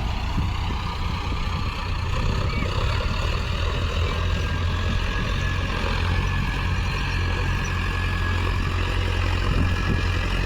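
Diesel tractor engine running steadily, a low, even hum with no change in speed.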